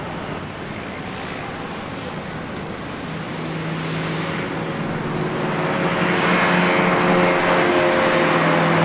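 Race car engine at speed, growing steadily louder as it approaches; from about three seconds in its steady engine note comes through clearly.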